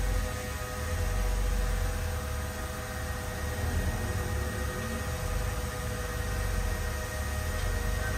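Diesel engine of a bulldozer running steadily, with a low rumble that swells and eases a little and a steady high whine over it.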